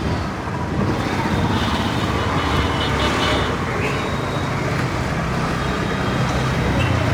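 Busy Indian street ambience: a steady mix of vehicle engines and traffic noise, with brief high steady tones in the first half.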